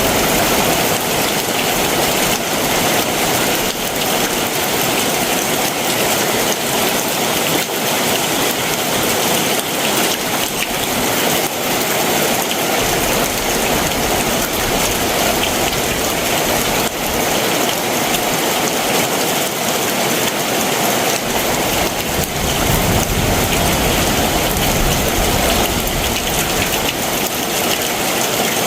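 Heavy summer monsoon downpour: dense, steady rain falling on surfaces. A low rumble comes in underneath about three-quarters of the way through.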